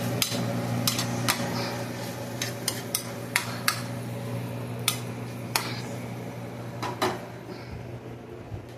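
A utensil stirring ground beef in a pot, knocking against the pot's sides and rim in a dozen or so irregular clicks over a steady background hum.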